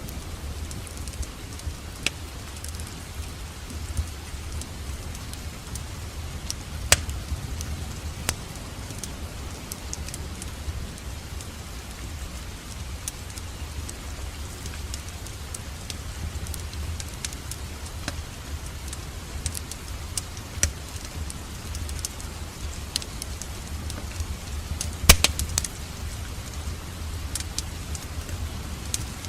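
Wood fire crackling in a fireplace: a steady low rumble with scattered sharp pops and snaps, the loudest about seven seconds in and a cluster of them near the end.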